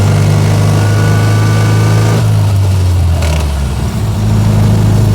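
1924 Austin Seven's side-valve four-cylinder engine running under load, heard inside the small car's cabin. The engine note falls away about two seconds in, dips briefly, then picks up again near the end, as the driver changes up from second to third in the non-synchromesh gearbox.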